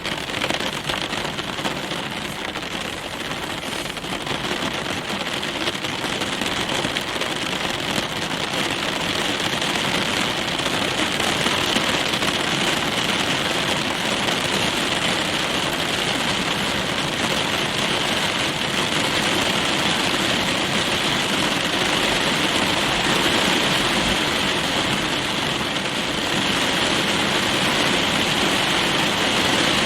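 Rain falling on a car's roof and windows, heard from inside the cabin: a dense, steady patter that grows a little louder over the first ten seconds.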